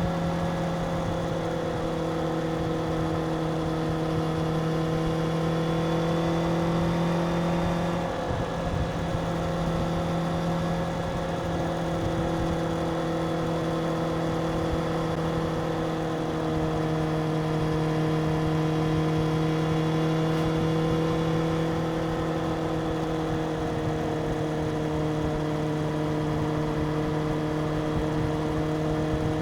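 Stock 2025 Suzuki GSX-R750's inline-four engine on its stock exhaust, running with a steady engine note. The note dips briefly and shifts slightly in pitch about eight seconds in, then holds steady again.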